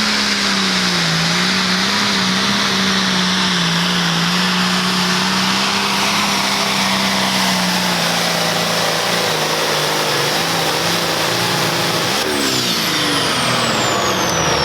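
Super Pro Farm pulling tractor's turbocharged diesel engine running flat out at about 4,000 rpm under full pulling load, its pitch holding steady with slight wavers. About twelve seconds in, the engine drops off and a high turbo whistle falls away in pitch as the driver lets off.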